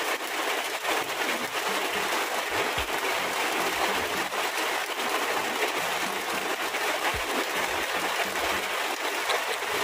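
Steady rain falling, an even hiss, with a few soft low thumps.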